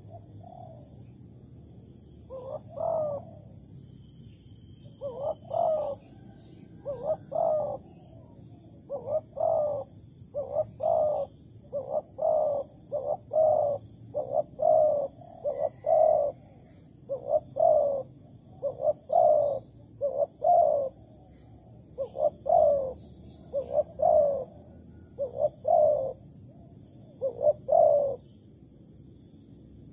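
Spotted dove, a Malaysian-strain decoy bird, cooing: a long run of short low coos in phrases of two or three notes, starting a couple of seconds in and repeating until near the end.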